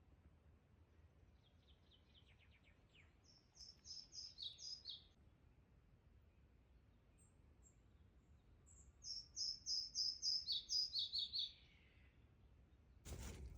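A small songbird singing two phrases of quick, repeated high chirps, the second longer and louder, over faint forest background; a sudden burst of loud noise near the end.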